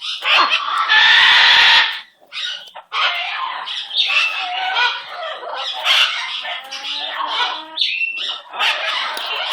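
Pet bird squawking and chattering almost without a break, with a loud harsh squawk about a second in.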